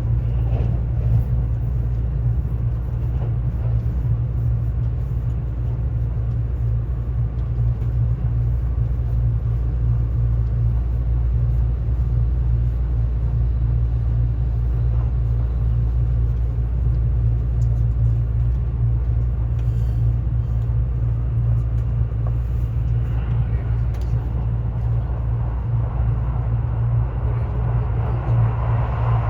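Steady low rumble of a Kintetsu ACE 22000/22600-series limited express train running at speed, heard inside the carriage.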